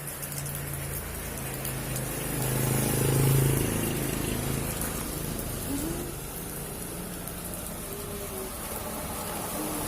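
Honda Vario scooter engine running through an aftermarket stainless racing muffler, idling with a short rise in revs about three seconds in, then settling back.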